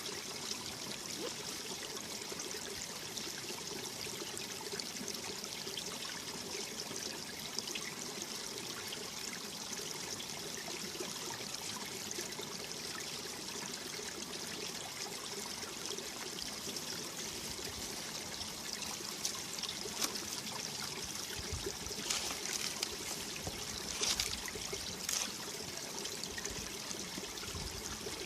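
Mountain valley stream flowing over rocks, a steady rush and trickle of water, with a few brief low rumbles and louder splashes in the last third.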